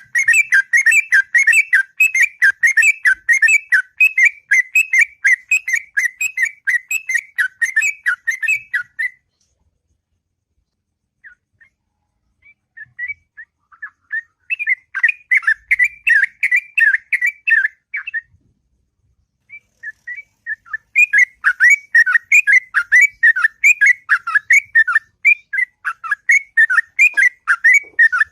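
Yellow-vented bulbul (trucukan) singing a long, rapid 'ngropel' song of fast bubbling whistled notes, in three long runs broken by pauses of a few seconds after about nine seconds and again around eighteen seconds.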